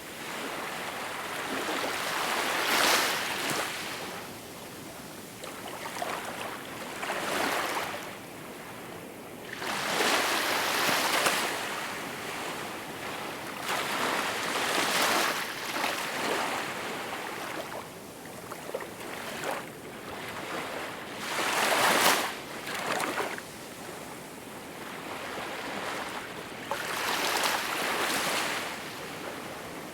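Small, calm sea waves washing onto a shore: a soft hiss that swells and falls back every few seconds.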